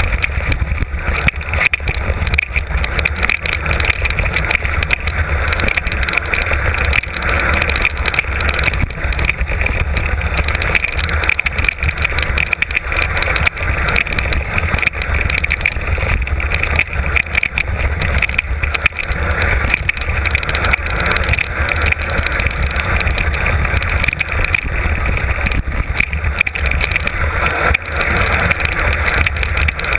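Mountain bike descending a trail, heard from a camera mounted on the rider or bike: a steady rush of wind on the microphone with a low rumble, and a constant clatter of knocks and rattles from the bike over the ground.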